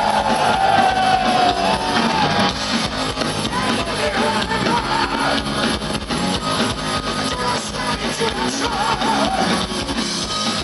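Heavy metal band playing live and loud: distorted electric guitars over bass and drums, with a lead line that bends and wavers in pitch.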